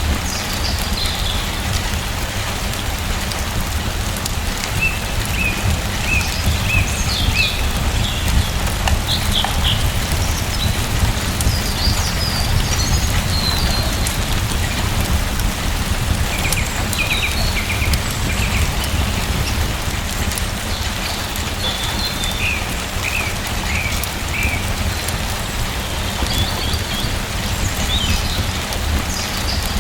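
Steady rain falling, with a low rumble underneath. Birds chirp in short scattered phrases throughout.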